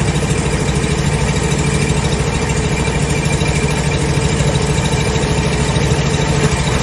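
Drain jetter's engine idling steadily while it warms up from a cold start.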